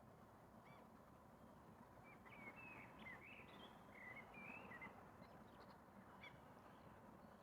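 Faint bird calls: a quick run of short chirping notes about two to five seconds in, with a few single notes around it, over a faint low background hiss of outdoor ambience.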